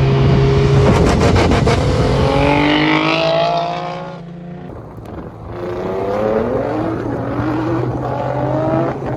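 Twin-turbo Infiniti G37's V6 engine accelerating hard, its revs climbing. About four seconds in it drops back, as at a shift or lift-off, then it climbs again.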